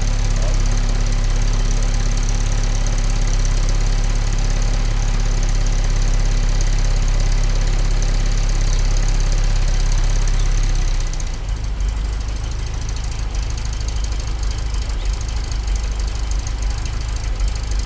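Car engine idling steadily just after a cold start. About eleven seconds in, the idle note changes to a slightly lower, quieter and rougher running.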